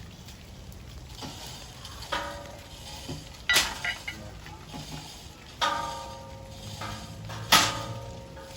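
Four sharp metallic strikes about two seconds apart, each ringing on with a clear pitch before fading, as when a metal pipe or pole is hit.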